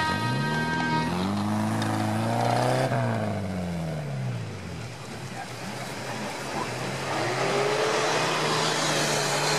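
Off-road 4x4 engine revving as it drives up a snowy track: the pitch climbs over the first three seconds, drops back, then rises and holds again in the last few seconds. A steady high-pitched tone sounds for about the first second.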